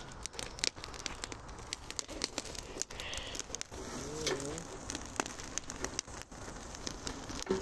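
Campfire of conifer needles, dry leaves and twigs burning, with irregular sharp crackles and pops throughout.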